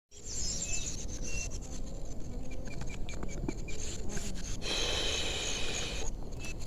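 Woodland outdoor ambience: short high bird chirps repeat over a low rumble of wind on the microphone, with scattered light clicks and rustles. A denser, buzzing call sounds for about a second around five seconds in.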